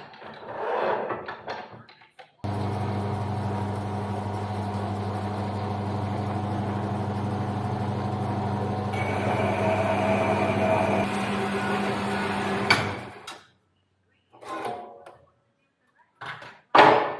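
An electric workshop machine starts suddenly and runs steadily with a deep hum for about ten seconds. A higher whine joins for the last few seconds of running. Then there is a sharp click and the machine winds down.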